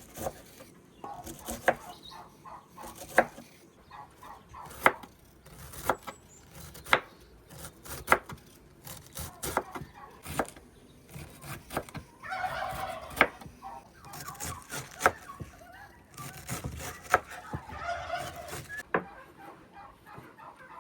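Sharp knocks of chopping on a wooden board, about one a second, with a turkey gobbling twice in the background.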